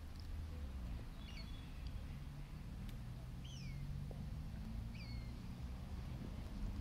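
A bird's short, high call that slides downward, given three times at intervals of about one and a half to two seconds, over a steady low background rumble.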